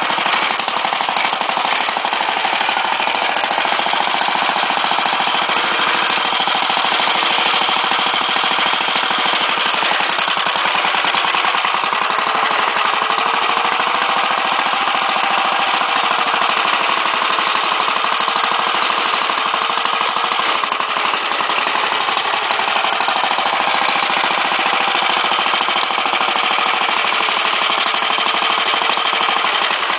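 BCS self-propelled finger-bar mower with a 15 hp Acme VT-88 engine running steadily under way, with a fast rattling clatter. The engine note sags and recovers twice, about twelve seconds in and again in the last third.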